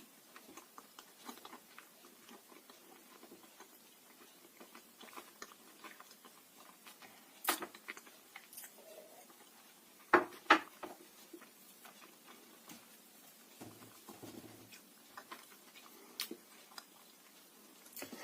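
Pieces of dry blue Uzbek clay being bitten and chewed: a steady run of small crunches and crackles, with a few sharp louder crunches, the loudest a pair about ten seconds in.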